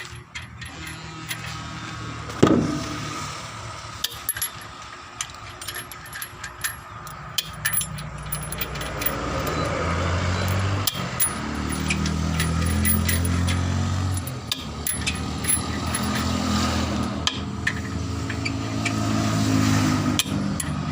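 Light metallic clinks and a sharp knock, then an engine or motor running with a steady low hum from about eight seconds in.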